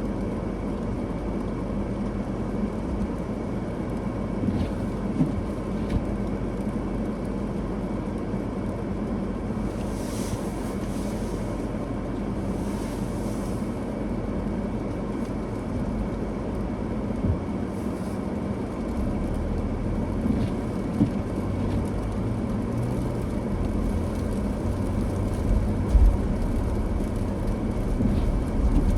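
Steady road and engine noise of a car driving on a snowy road, with two brief hisses about ten and thirteen seconds in and a few short knocks.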